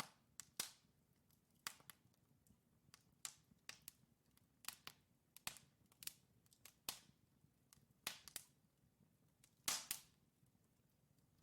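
Logs burning in a fireplace, crackling with irregular sharp pops and snaps; the loudest pop comes a little before the end.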